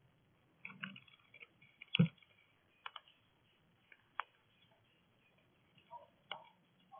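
Scattered clicks and taps at a bird feeder, roughly one every second or so, the loudest about two seconds in.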